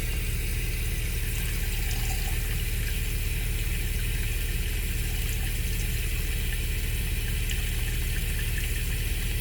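Hot water running steadily from a camper's faucet, fed by a freshly installed tankless water heater, over a steady low mechanical hum.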